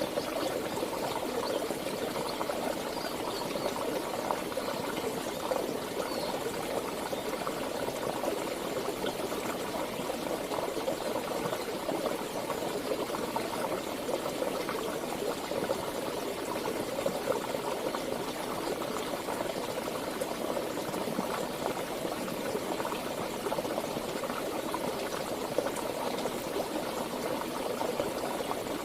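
Water of a stream or river flowing and burbling steadily.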